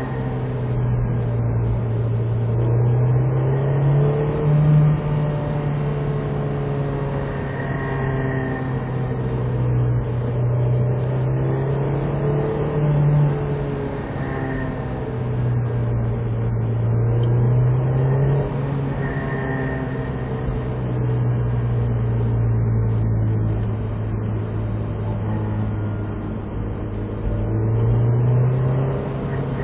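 Honda S2000 (AP2) 2.2-litre four-cylinder engine running in a narrow rev band, its note slowly rising and falling over several seconds. This is the 4000–4500 rpm range where the owner hears a weird vibration noise that he cannot identify.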